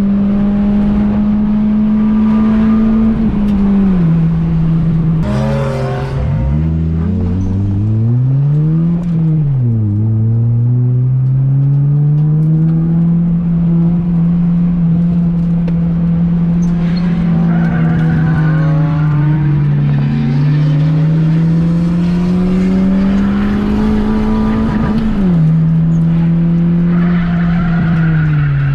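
Onboard sound of a Honda Fit's 1.5-litre four-cylinder engine working hard on a race track. The revs climb and then drop sharply at each gear change, three or four times. There is a brief tangle of rising and falling engine notes in the first third.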